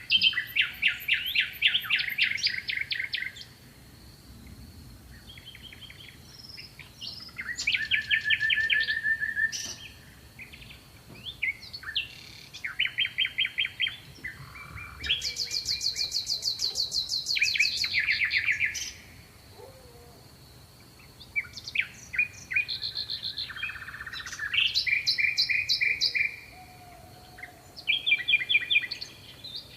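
Songbirds singing in a series of rapid trilled phrases, each lasting one to a few seconds with short pauses between, over a faint steady high tone.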